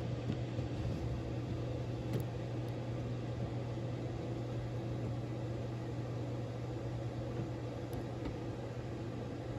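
Steady low mechanical hum under an even hiss, with a faint click about two seconds in and another near the end.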